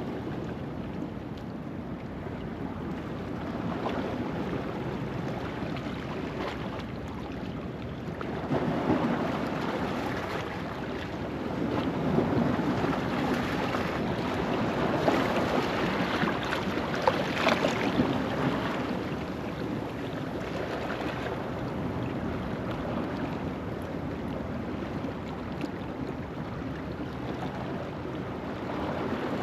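Ocean waves washing over a rocky shoreline at low tide, building up twice in the middle with a few sharper splashes on the rocks.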